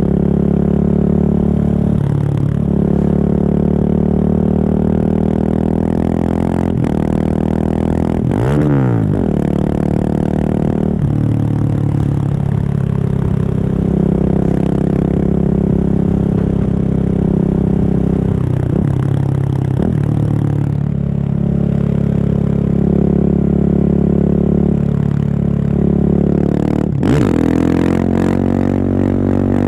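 Husqvarna 701 supermoto's single-cylinder engine through a Remus exhaust with the dB killer removed, running under way. The revs dip and rise briefly several times, most sharply about eight seconds in and again near the end.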